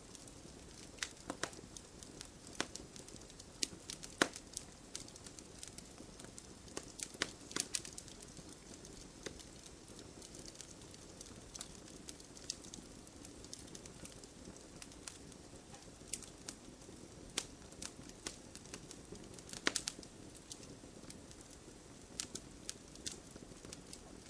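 Wood fire burning in a fireplace: a steady low hiss with irregular crackles and sharp pops, a few louder pops scattered through.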